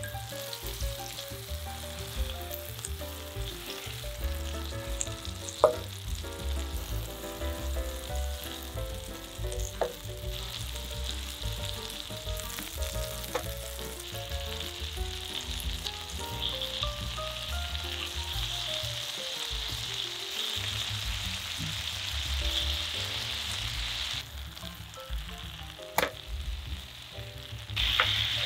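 Hamburger patties of ground beef and pork sizzling in hot oil in a nonstick pan, with a few sharp clicks. The sizzle grows louder about halfway through, as a ketchup, red wine and Worcestershire sauce bubbles around the patties.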